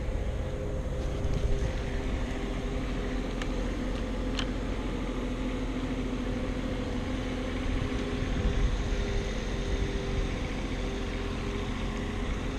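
An engine running steadily: a hum with a few held tones that shift slightly in pitch. Two faint clicks come about three and a half and four and a half seconds in.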